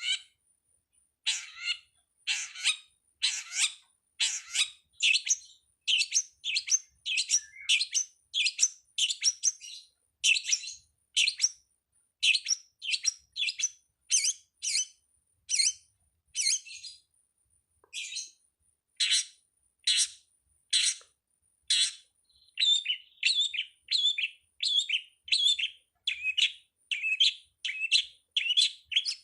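Long-tailed shrike (pentet/cendet) singing: a long run of short, scratchy chattering notes, about two a second with brief pauses. In the last several seconds the notes come quicker and lower.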